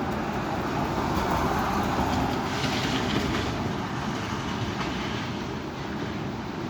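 Strong storm wind blowing, with a steady low rumble on the microphone that swells briefly a second or two in.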